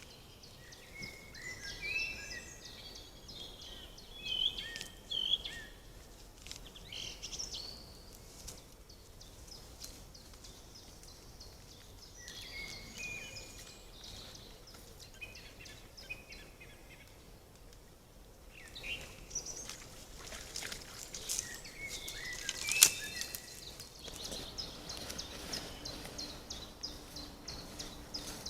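Small birds chirping and calling in short bursts of quick notes, with one sharp click late on and a fast, even ticking near the end.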